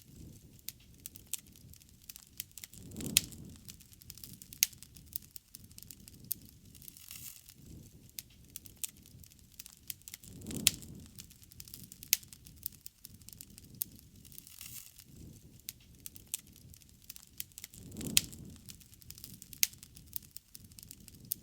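Wood bonfire crackling, with frequent sharp pops and snaps. Under them runs a low rumble that swells about every seven and a half seconds.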